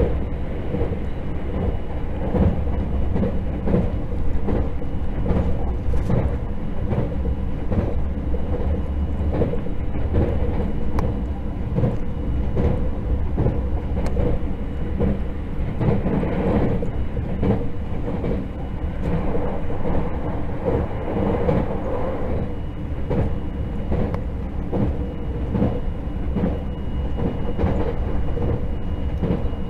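Running noise of a JR 681/683-series limited express electric train heard from inside a passenger car: a steady rumble with frequent clicks of the wheels over the rail, and a faint steady high tone.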